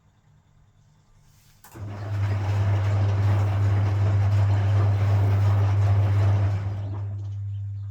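Vintage Frigidaire front-loading washing machine's drain pump switching on about two seconds in with a strong steady hum and water rushing through it, emptying the drum after a rinse; the rushing eases near the end while the pump hum carries on.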